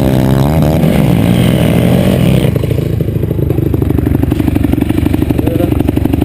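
Motocross bike engine revving, its pitch rising and falling for the first couple of seconds, then running more steadily at lower revs.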